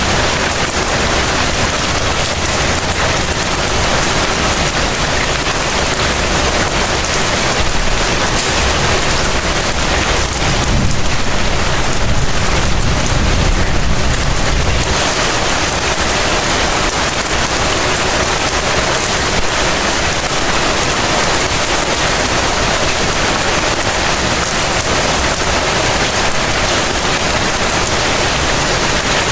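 Heavy rain falling in a steady, dense hiss, with a low rumble swelling for a few seconds near the middle.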